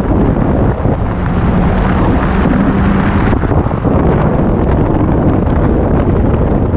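Heavy wind noise on a helmet-mounted camera microphone at riding speed, with the Yamaha R1's inline-four engine running underneath. A steady engine note stands out from about a second in until about three seconds in.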